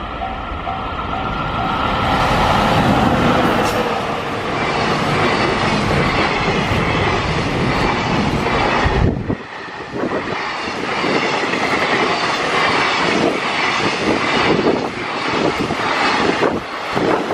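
Container freight train hauled by an EF65 electric locomotive passing close by. The locomotive goes by and then its long line of loaded container wagons rumbles past, wheels clattering over the rail joints.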